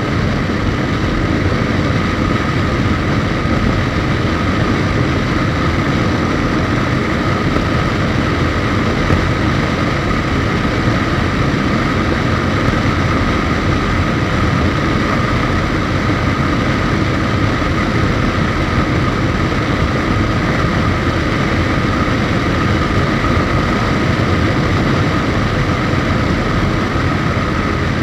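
Suzuki GSX1250FA motorcycle's inline-four engine running at a steady cruise on the road, with a steady hum and dense wind and road noise.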